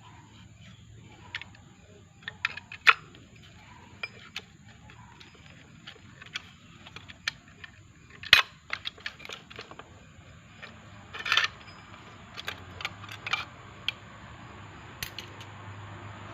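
Irregular metallic clinks and knocks of hand tools and parts being handled during transmission repair work, the sharpest about three and eight seconds in, over a low hum that grows louder near the end.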